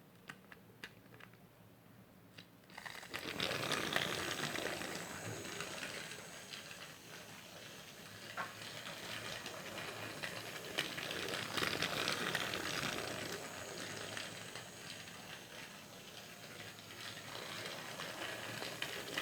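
Motorised TrackMaster toy engine with a replacement motor running along plastic track: a rattling whir full of small clicks that starts about three seconds in and swells and fades as the engine comes near and moves away.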